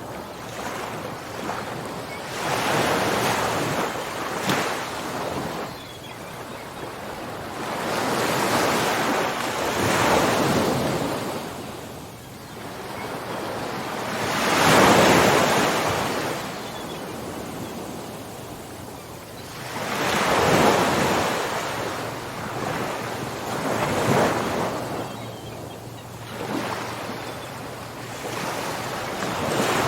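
Ocean waves breaking and washing up the shore, surging and falling back in swells every few seconds, the loudest about halfway through.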